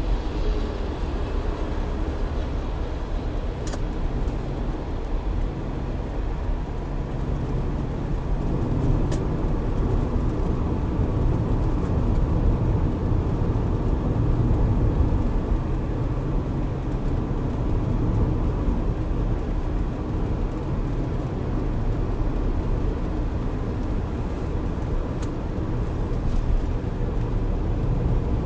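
Steady rumble of a car driving at speed, with road and engine noise recorded by its dashcam.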